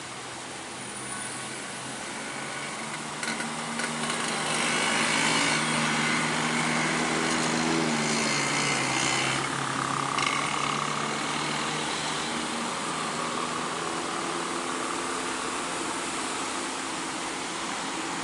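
Truck engine running close by, growing louder a few seconds in and then easing off, its pitch dropping partway through.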